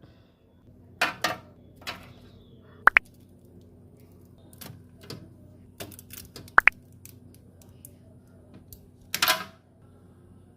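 Snack packets being handled and set into a container: short wrapper rustles about a second in and near the end, and two sharp double clicks with a brief ring about three and six and a half seconds in.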